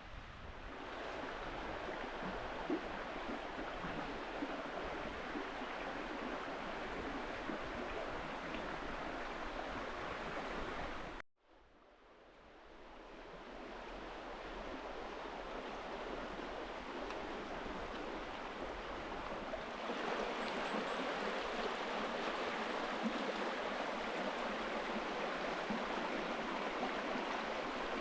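A clear river flowing with a steady rush of water. It cuts out abruptly about a third of the way in, fades back up, and gets louder again about two-thirds of the way in.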